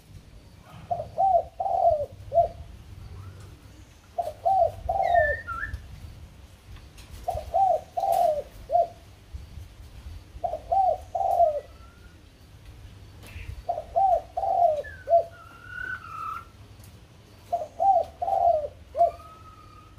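A bird calling in short phrases of three or four low, falling notes, repeated six times about every three seconds, with a few higher gliding whistles in between.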